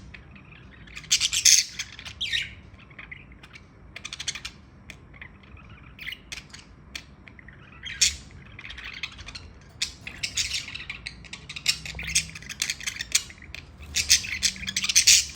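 Budgerigar chattering and chirping in repeated short bursts, with a dense run of chatter near the end.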